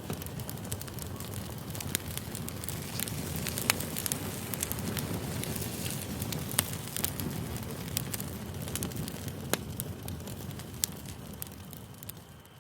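Campfire burning: a steady low rush of flames with frequent sharp crackles and pops from the burning wood.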